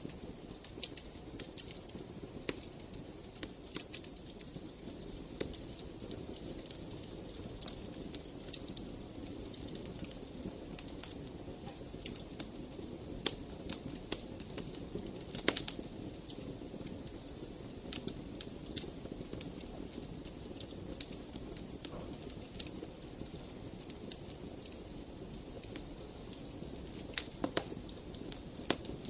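Wood fire in a fireplace, crackling and popping irregularly over a steady low rush of burning flames, with a few louder snaps.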